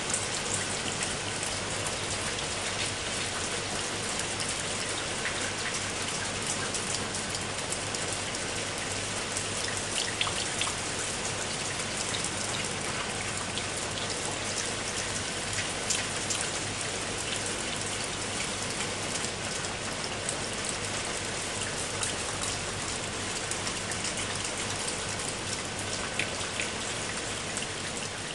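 Heavy rain falling steadily, with many sharp individual drop hits over an even hiss.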